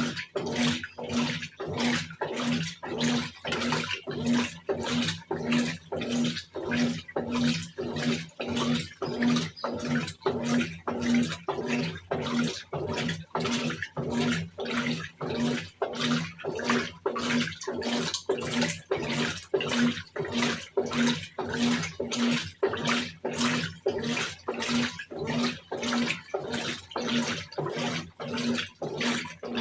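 Brastemp 17 kg top-load washing machine agitating a wash load in water: the agitator swishes back and forth in a steady rhythm of about two strokes a second, with a motor hum pulsing on each stroke.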